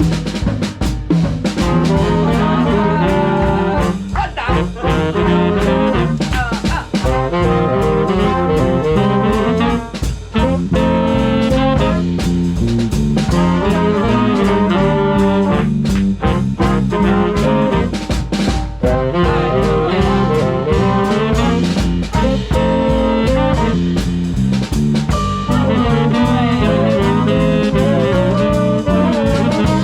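Swing band playing jazz: saxophones and brass over a drum kit.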